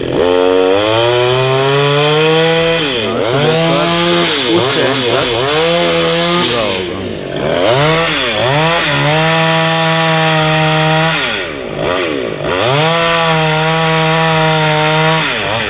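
Petrol chainsaw running at high revs. The engine note drops and climbs back several times as the chain works through bush branches.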